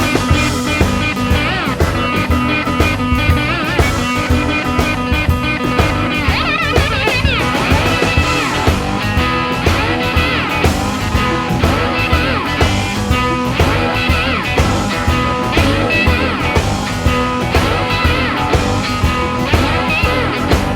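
Blues band playing an instrumental break: a guitar lead with bent, wavering notes over bass and a steady drum beat.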